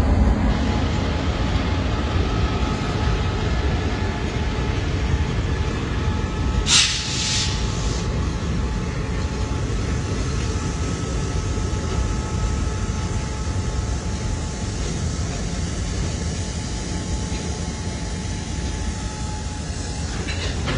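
Diesel freight locomotive and its railcars passing, a steady heavy rumble throughout, with a brief sharp hiss about seven seconds in.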